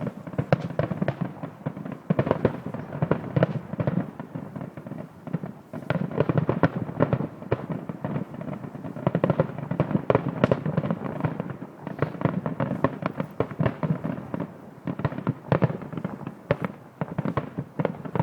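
Fireworks display: a dense, continuous barrage of bangs and crackles, many per second, with louder booms scattered throughout.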